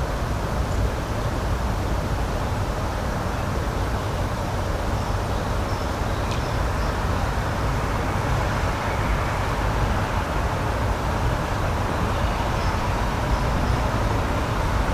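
Steady, low outdoor rushing noise with no break, with a few faint, high, short chirps around the middle and again near the end.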